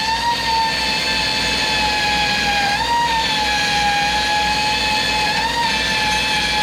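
A power tool running with a steady high whine whose pitch wavers and dips slightly a few times, over a low pulsing hum.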